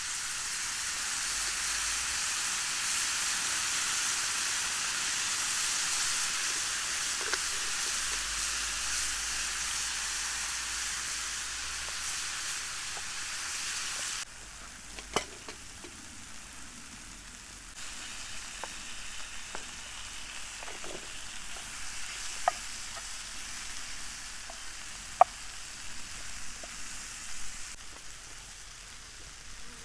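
Tomatoes and onions sizzling in olive oil in a pan over a campfire, with water just added to the pan; a loud steady sizzle that drops suddenly about halfway through to a quieter sizzle with scattered sharp ticks and pops.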